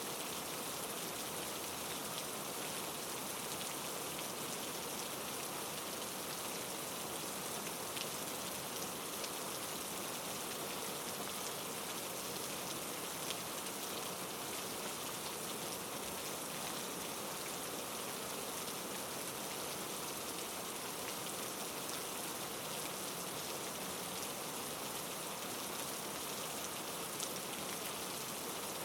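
Heavy rain falling, a steady hiss with a few sharper drop ticks standing out here and there.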